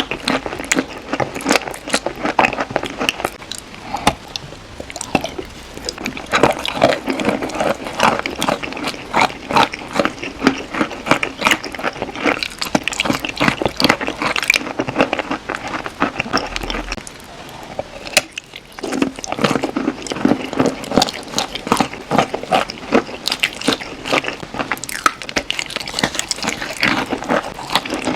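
Chalk being crunched and squished, a dense run of rapid crackling crunches with brief lulls about four seconds in and again near eighteen seconds.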